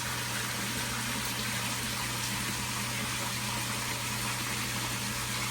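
Koi pond's circulating water running steadily, with a steady low hum from the pond pump.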